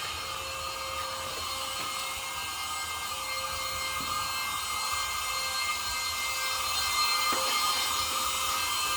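Vacuum cleaner running steadily: a constant motor whine over an airy hiss, growing slightly louder toward the end.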